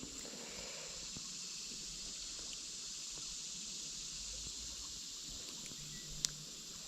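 Steady high-pitched chorus of insects, with one sharp click about six seconds in.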